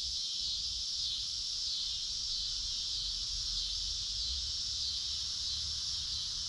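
Steady chorus of insects: a high, continuous trill that swells and fades slightly in an even pulse about once a second.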